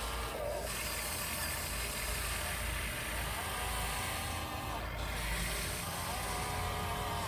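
1/14 scale radio-controlled truck running on dirt: a steady wash of noise with a faint whine that wavers in pitch.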